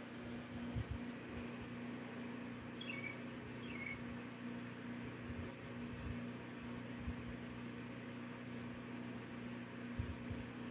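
Faint bird calls: two quick runs of short chirps, each falling in pitch, about three to four seconds in. Under them runs a steady low hum, with a soft thump near the start and another near the end.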